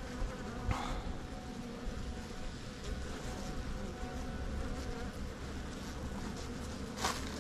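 Many honeybees buzzing steadily around an opened hive. The colony is defensive this late in the season. A brief knock sounds about a second in and another near the end.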